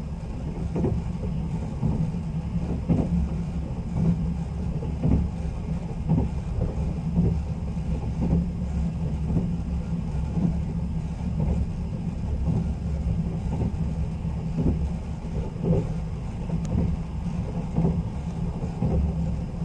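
Sleeper express train heard from inside a passenger coach while running: a steady low rumble of wheels on rails, broken by short knocks every half second to a second.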